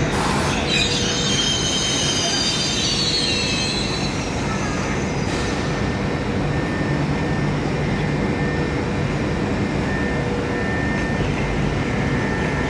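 ETR 600 Frecciarossa train moving slowly through Milano Centrale station with a steady rolling rumble. For the first few seconds, high-pitched squeals of steel wheels on the rails sit over the rumble; fainter thin squeals come later.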